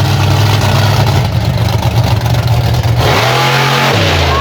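Monster truck engine running hard under throttle, then revved up and down about three seconds in.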